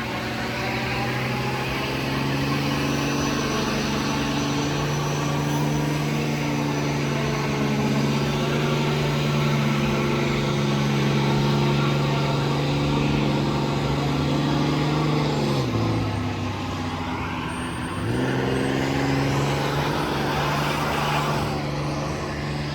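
Vehicle engine running steadily. About two-thirds of the way through, its pitch drops, then climbs back up about two seconds later.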